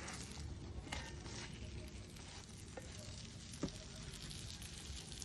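Msemen flatbread sizzling as it fries over a wood fire, a steady hiss with a few sharp pops, the loudest about three and a half seconds in.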